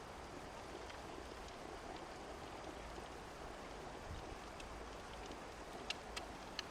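Steady rushing of rain and a mountain river, with scattered sharp raindrop ticks, several near the end.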